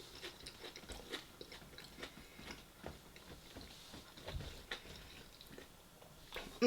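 Close-up chewing of a popper dipped in sweet chili sauce: soft, scattered mouth clicks and wet chewing.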